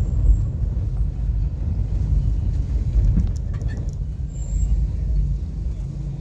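Steady low rumble of a vehicle driving along a road, with a few faint clicks about three to four seconds in.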